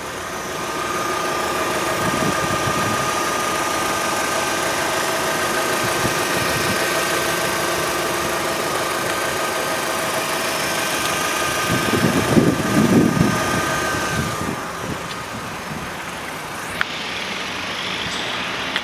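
Strong wind rushing across the microphone over a steady engine-like hum, which fades out about fourteen seconds in. A heavier gust comes about twelve seconds in.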